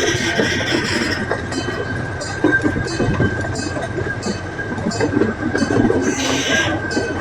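Zoo ride train running along its track, its wheels clicking over the rail joints with a steady high whine. There are two short hisses, one at the start and one about six seconds in.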